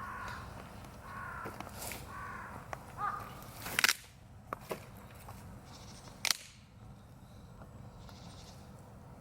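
Wood burning in a campfire, popping with a few sharp cracks about four and six seconds in. Before that, a bird calls four short times.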